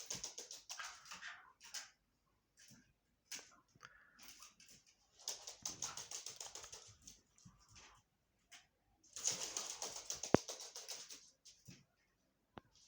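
Chukar partridge calling in bouts of rapid, closely repeated notes, each bout lasting about two seconds, with short quiet gaps between them.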